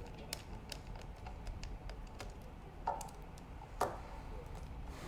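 Light scattered clicks and taps of small parts and a tool being handled inside an opened laptop, with two louder knocks about three and four seconds in.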